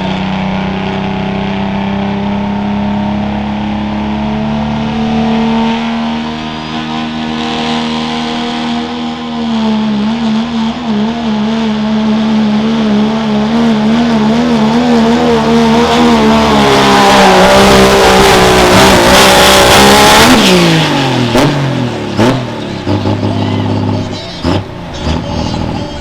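Turbo-diesel pickup truck engine at full throttle pulling a sled, revs climbing slowly, then the pitch wavering up and down from about ten seconds in. It gets loudest later on, then the revs drop sharply about twenty seconds in.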